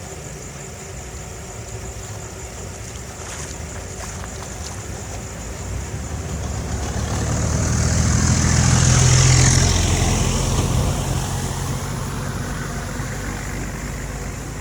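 A motor vehicle passes by, its engine and tyre noise growing louder to a peak about nine seconds in, then falling in pitch and fading.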